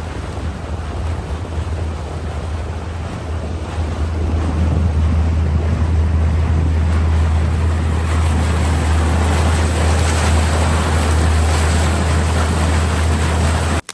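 Small boat underway: steady motor rumble and rushing water, with wind buffeting the microphone. It grows louder about four seconds in and cuts off suddenly near the end.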